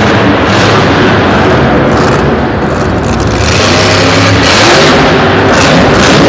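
Loud monster truck engine running hard and revving, its pitch rising in the second half.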